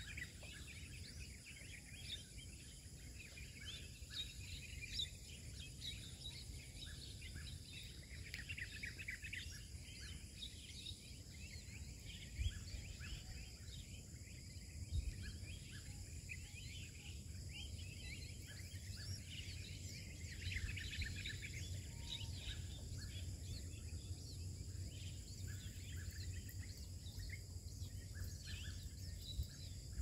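Small birds chirping in quick, high-pitched notes throughout, over a steady high hum and a low rumble, with two dull thumps about twelve and fifteen seconds in.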